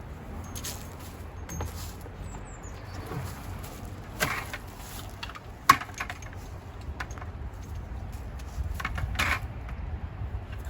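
Equipment being handled: a few knocks and clicks of hoses and fittings, one sharp click about halfway through the loudest, over a steady low rumble.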